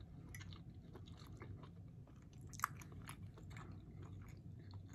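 A person chewing food close to the microphone: faint, wet mouth clicks, with one sharper click about two and a half seconds in.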